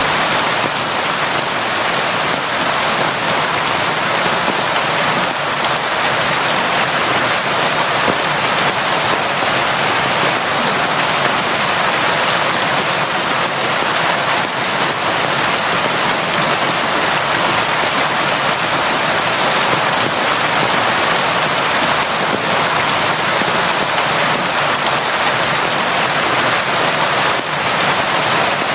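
Steady, heavy rain falling, an even, dense hiss of drops with no let-up.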